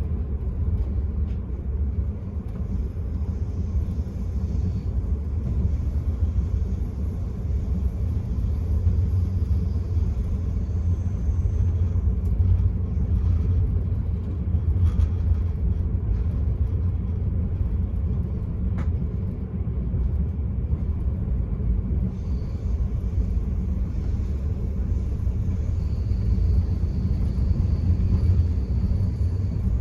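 Steady low rumble of the Enterprise passenger train running along the line, heard from inside the carriage: wheel and running noise with no speech.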